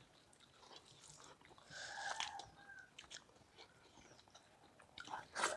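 Close-up mouth sounds of people eating rice and palak paneer by hand: soft chewing and lip smacking, with a louder noisy stretch about two seconds in and a sharper, louder burst near the end.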